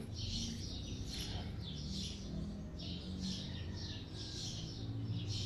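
A bird chirping over and over, about two short, high chirps a second, over a faint low steady hum.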